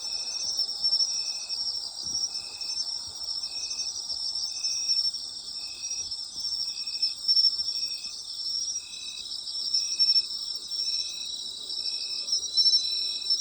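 Night chorus of autumn insects: a dense, high, pulsing trill from many callers. Over it, one insect gives a short, even note about once a second.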